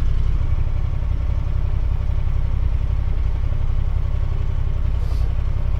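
Side-by-side UTV engine running steadily, a low even rumble.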